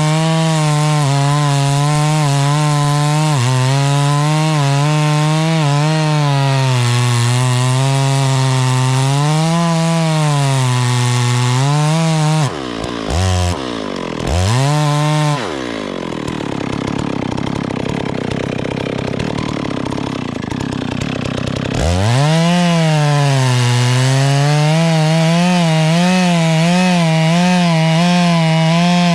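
Two-stroke chainsaw running at high revs, its pitch sagging and rising as the chain bites into the wood. About halfway through the pitch drops away for a few seconds into a rougher noise, and the saw revs back up about three quarters of the way in.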